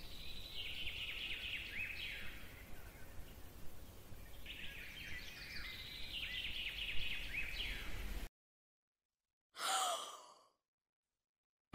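Birds chirping and trilling in quick runs of high notes over a low background rumble, in two stretches. The sound cuts off abruptly, and about a second later comes a short breathy vocal sound like a sigh.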